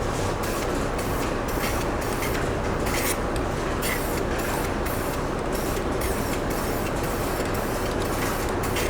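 A coating being sprayed onto the face of a rusty steel truck wheel: a continuous spraying hiss with short irregular pulses, over a steady low machine hum.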